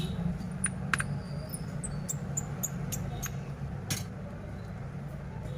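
Scattered short, high-pitched clicks and ticks, a dozen or so in the first four seconds, over a steady low rumble.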